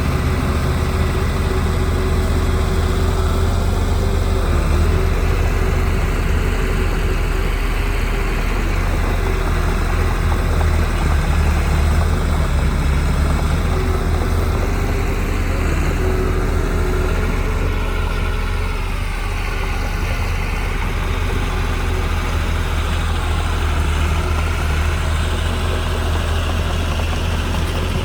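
Heavy diesel engine of earthmoving equipment running steadily, its pitch rising and falling somewhat in the second half.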